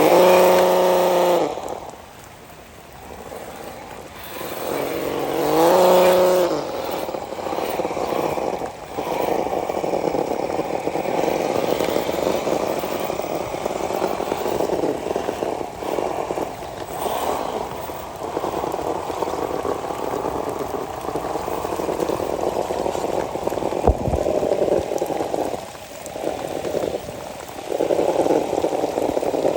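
Electric motor and gearbox of an RC crawler whirring steadily under load, rising and falling with the throttle as it works through mud. Near the start and about six seconds in there are two brief drawn-out vocal calls, and a single sharp click comes late.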